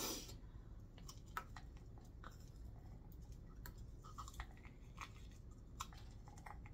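Faint chewing of corn on the cob with dentures: scattered soft crunches and small clicks, then teeth biting into the cob again in the second half.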